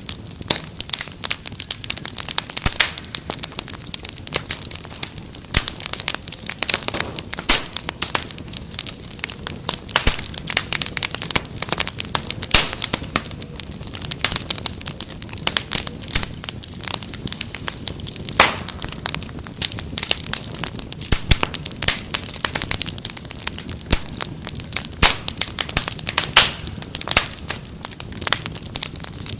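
Wood fire crackling steadily, with frequent sharp irregular pops and snaps over a low rushing hiss.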